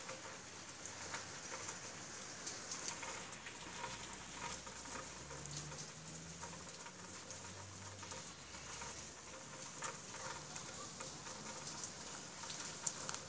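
Heavy rain falling steadily: an even hiss with scattered drops ticking and pattering on surfaces.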